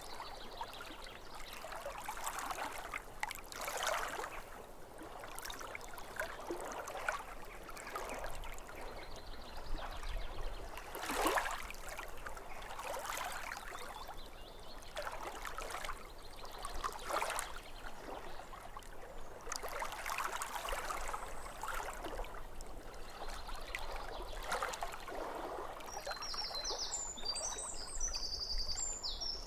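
Lake water lapping at the shore in irregular small splashes every second or two. A bird chirps faintly in short high notes near the end.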